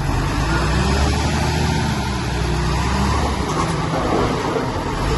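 Diesel engine of heavy earthmoving machinery running steadily under work, with a low, even engine note.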